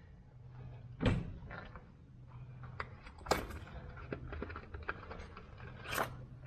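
Scattered small clicks and three louder knocks, about a second in, midway and near the end, from tools and parts being handled, over a low steady hum.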